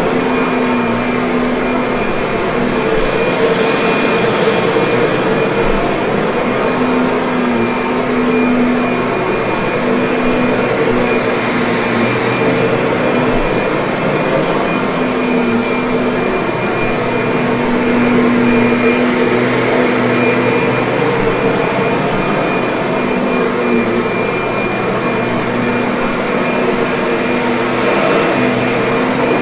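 Kirby vacuum cleaner running steadily: a continuous motor drone with a high, even whine over it.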